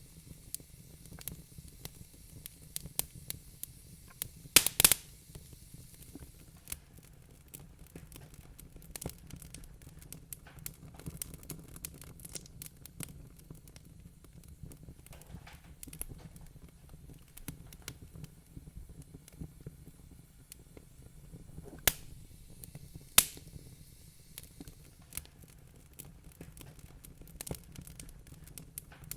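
Wood fire crackling in a fireplace: steady small snaps and clicks over a low rumble, with a cluster of loud pops about five seconds in and two more sharp pops past the two-thirds mark.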